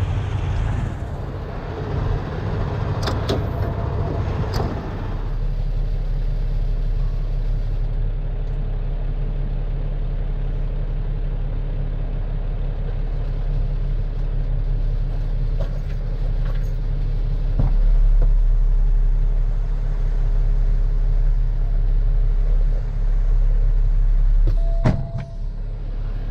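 Heavy diesel truck engine running steadily, a deep rumble, with a few short knocks and clicks over it.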